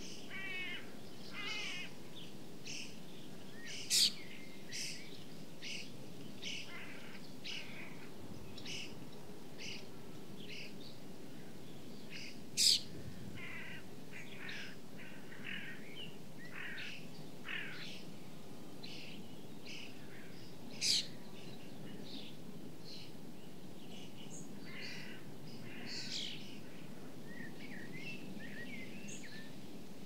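Wild birds calling: a steady scatter of short chirps and calls, with three louder, sharp calls about four, thirteen and twenty-one seconds in, over a steady low background hum.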